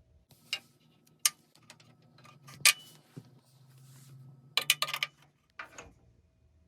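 Metal hand tools clicking and clinking during engine work: a few separate sharp clicks, then a quick run of clicks about four and a half seconds in.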